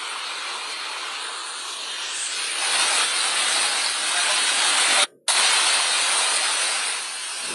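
Steady hiss of heavy water, with a brief dropout about five seconds in before it resumes.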